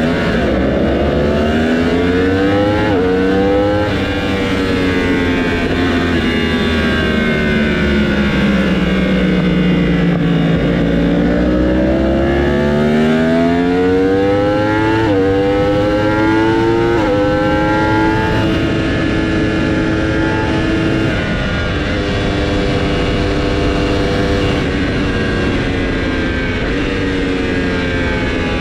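Race motorcycle engines on the circuit, revving hard: the pitch sinks slowly as a bike slows, then climbs again under acceleration, with several quick gear-change steps.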